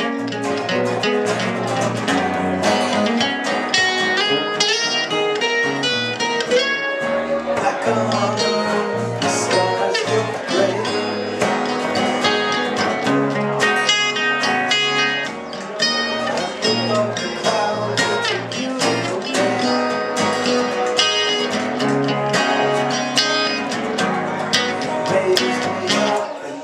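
Instrumental break of an acoustic song: guitar and dobro playing plucked lead lines over a steady bass line, with no singing.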